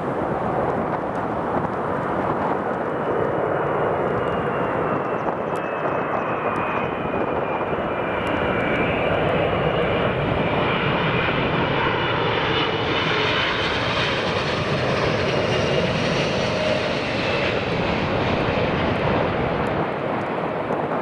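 Airliner jet engines running loud during a takeoff or landing, a steady rushing noise with a high whine in several tones; the hiss grows brighter about halfway through.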